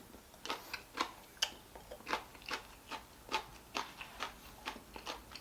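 Close-up chewing with the mouth, a steady run of short wet clicks and crunches about two or three a second.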